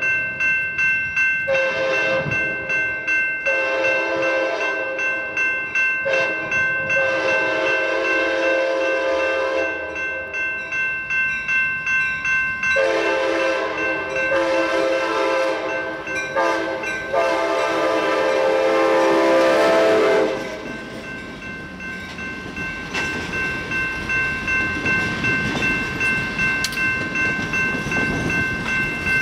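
EMD F59PHI diesel locomotive sounding its multi-chime air horn in a series of long and short blasts over the first twenty seconds, while a bell rings rapidly and steadily throughout. After the horn stops, the rumble of the passing train and its wheels on street-running track take over under the bell.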